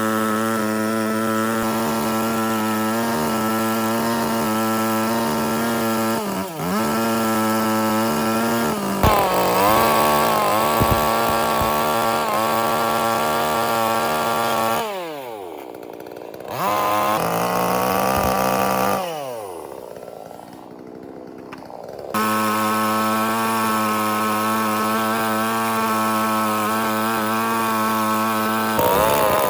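Chainsaw engine running at high revs, its pitch dipping briefly as it works. It twice winds down toward idle and revs back up.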